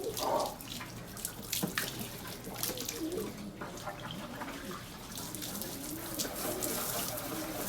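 Domestic pigeons cooing again and again, over the hiss of running water as the loft is washed down.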